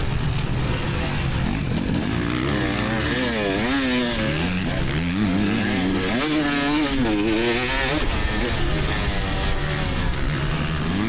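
2024 GasGas EX300 two-stroke dirt bike engine under race throttle, its pitch rising and falling over and over as the rider gets on and off the gas.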